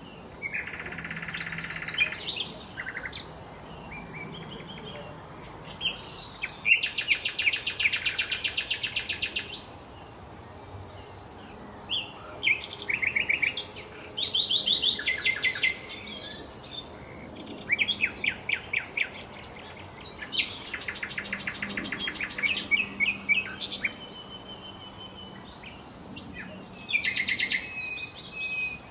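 Several songbirds singing and calling, with varied chirps and short phrases. Two long, very rapid trills come about seven seconds in and again about twenty-one seconds in.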